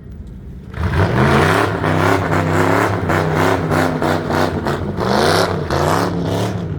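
Car engine revved hard several times from about a second in, its pitch climbing and dropping with each blip of the throttle.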